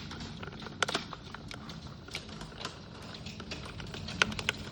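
Pea-size hailstones striking and bouncing off a windowsill: irregular sharp ticks, several a second, over a steady hiss of falling hail.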